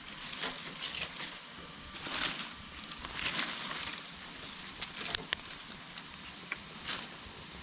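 Wood campfire crackling and hissing, in irregular rushes of hiss with several sharp pops a little past the middle.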